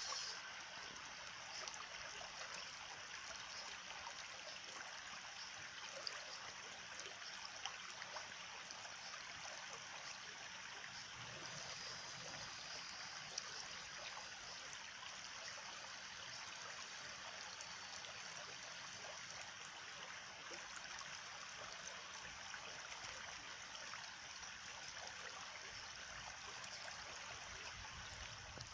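A small stream flowing and trickling steadily.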